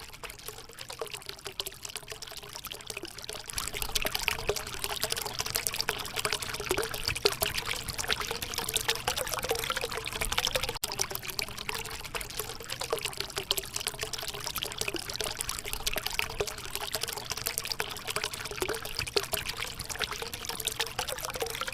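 Water from a small tabletop waterfall fountain fed by a submersible pump, falling and trickling steadily into its basin with light splashing.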